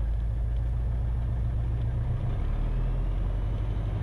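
Cessna 172RG's four-cylinder Lycoming engine running steadily at about 1800 rpm for the pre-takeoff run-up, heard from inside the cabin. Its low, even drone shifts slightly about halfway through.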